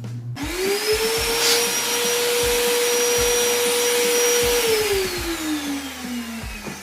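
PowerHouse 1,200-watt 3-in-1 wet/dry vacuum running as a blower. Its motor is switched on and quickly comes up to a steady high whine with a rush of air, runs for about four seconds, then is switched off and winds down with a falling pitch.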